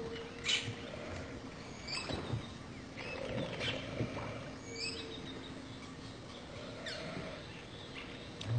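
Outdoor wildlife ambience: scattered short bird chirps and calls over a faint steady hum.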